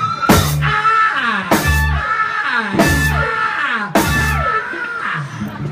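Live blues band playing: heavy drum and cymbal hits land about once every 1.2 seconds, with bass and bending electric guitar notes between them.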